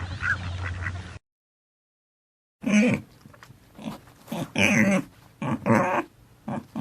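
Ducks quacking briefly, cut off about a second in. After a moment of silence comes a run of short, pitched animal calls, each under half a second long.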